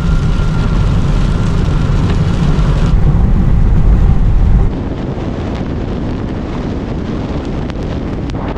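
Car driving in storm wind: a loud, heavy low rumble of wind buffeting and road noise that drops suddenly about five seconds in to a quieter, steady hiss.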